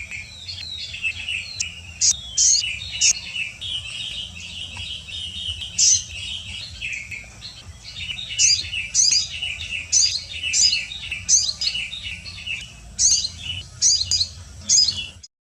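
Small birds chirping in rapid runs of high, sharp notes, with many louder single chirps standing out, especially in the second half, over a low steady rumble. The sound cuts off abruptly near the end.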